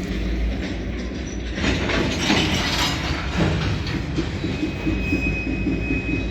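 Freight cars rolling slowly in a rail yard during switching, a steady low rumble and clatter with a louder rattling stretch about two seconds in. A thin, high wheel squeal starts about two-thirds of the way through.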